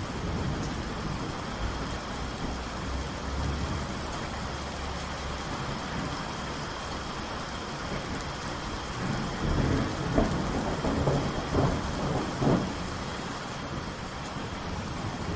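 Steady rain falling, with thunder rumbling low in the background. About two-thirds of the way in, a rolling peal of thunder breaks with several loud cracks over a few seconds.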